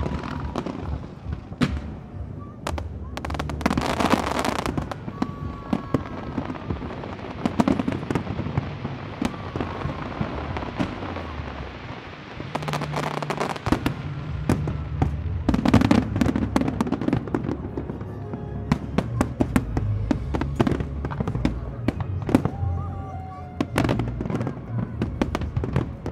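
Fireworks display: a dense run of shell bursts, bangs and crackling going on without a break. Music with a bass line plays underneath.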